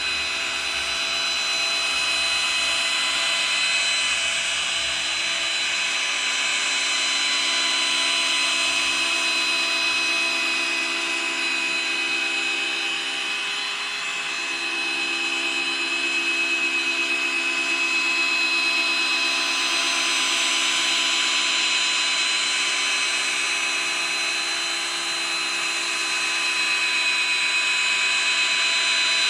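Old corded Black & Decker electric drill running steadily with a foam polishing pad, buffing headlight polish into a plastic headlight lens in long, smooth strokes. A steady motor whine with small rises and dips as the pad is pressed and moved.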